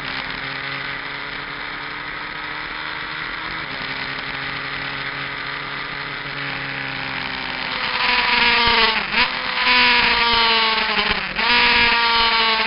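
Kawasaki GPZ900R inline-four engine with an aftermarket exhaust running steadily on the bike, then getting much louder about eight seconds in, its revs falling with two quick breaks where the pitch dips and jumps back up, like downshifts while slowing.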